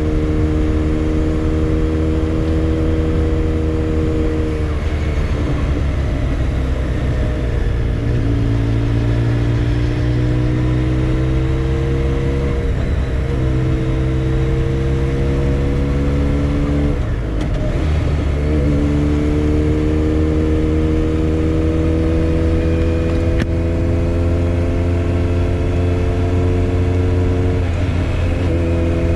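Motorcycle engine running on the move. Its pitch climbs slowly and drops back at about five gear changes, the deepest dip coming a little past halfway.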